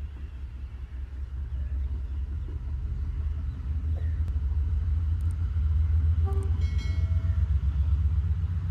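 Tezgam express's diesel locomotive and train running with a low rumble that grows steadily louder as the train pulls out. About two-thirds of the way through, a short, higher-pitched tone sounds over the rumble.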